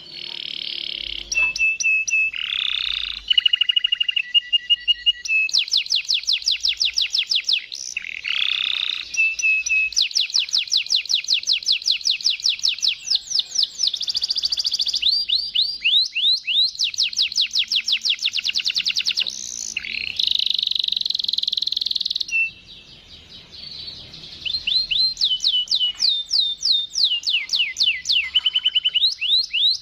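Canary singing long, fast rolling trills in Waterslager-style phrases: rapid runs of repeated high notes, some gliding and some held on one pitch. The song breaks briefly a little after two-thirds of the way through, then resumes.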